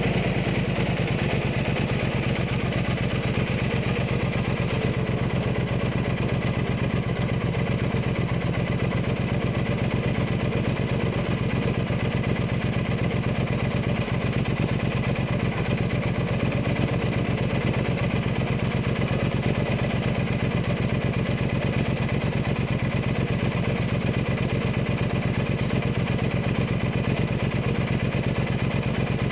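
Triumph Bonneville T120's 1200 cc parallel-twin engine through a Zard aftermarket exhaust, running at a steady, even pace with no revving.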